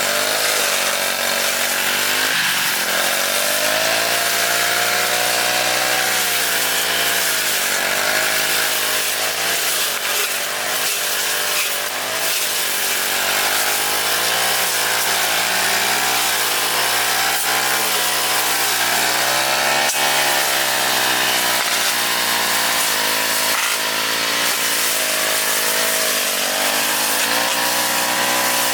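Lawn mower engine running under load while cutting grass, its pitch wavering up and down without a break.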